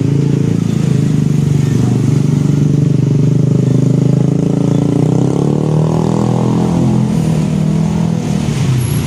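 Large truck's diesel engine running close by with a low, steady note, climbing in pitch as it accelerates about halfway through, then easing off near the end.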